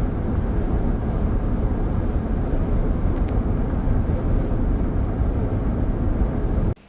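Steady road and engine noise of a car driving along, heard from inside the cabin; it cuts off abruptly near the end.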